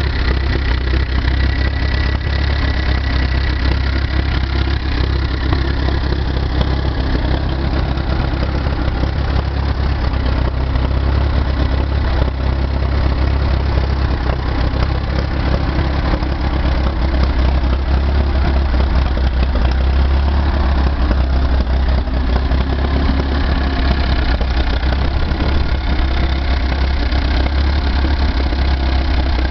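Case Model C tractor's four-cylinder engine idling steadily, with a strong low rumble and no change in speed.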